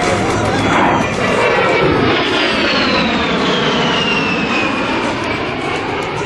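A-10 Thunderbolt II's twin TF34 turbofan engines whining loudly as the jet flies past, the high whine falling steadily in pitch from about two seconds in as it goes by.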